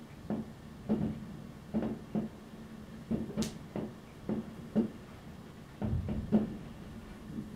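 Distant fireworks going off: a run of about a dozen muffled bangs and pops at irregular intervals, with one sharper, higher crack a little before halfway.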